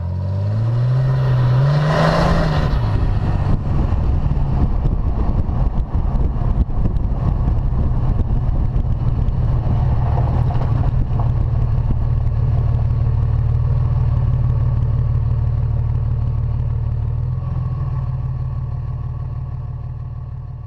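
Truck engine revved once, its pitch rising and falling back about two seconds in, then idling steadily before fading out near the end.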